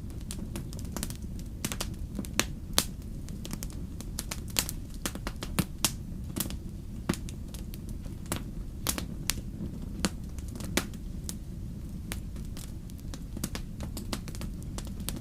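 Wood fire burning in a fireplace, crackling with irregular sharp pops and snaps, a few louder than the rest, over a steady low rumble.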